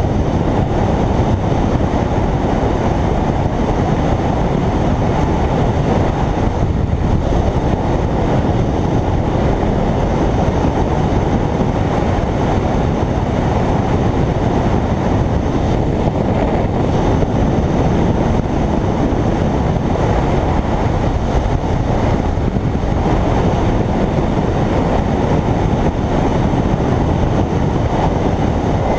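Riding on a Kawasaki Ninja 300 motorcycle: a steady, loud rush of wind and road noise over the microphone, with the running bike underneath.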